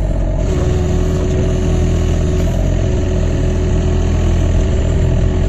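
Excavator's diesel engine running at a steady, even pitch while the machine digs a ditch, with a faint steady whine that fades in and out.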